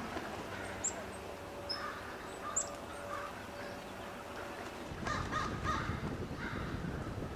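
Birds calling with repeated short, harsh calls, and a few brief high chirps in the first few seconds. A low rumbling noise comes in about five seconds in and is the loudest part.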